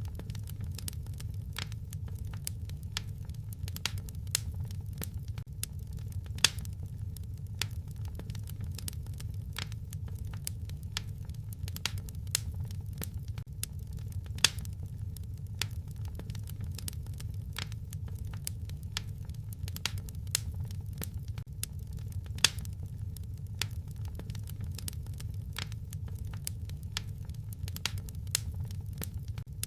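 Wood fire crackling in a fireplace: irregular sharp snaps and pops, a few of them much louder, over a steady low rumble.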